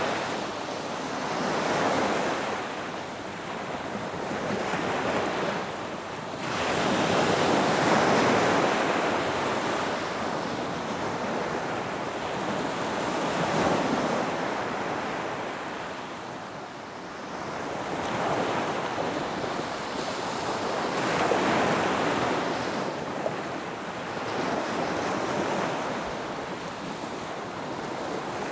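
Ocean waves breaking and washing onto a beach, a steady wash that swells every few seconds as each wave comes in and then falls back.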